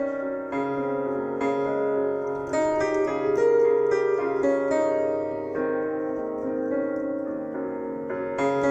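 Instrumental music: a piano playing chords and melody notes, with a steady flow of sustained, overlapping notes.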